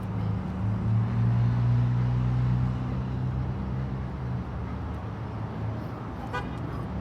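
A road vehicle's engine runs nearby as a low, steady hum. It grows louder over the first few seconds, then fades.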